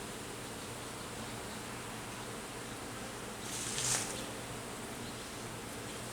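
A swarm of honeybees buzzing steadily around an opened hive box during a frame inspection, with a brief louder rustle about three and a half seconds in.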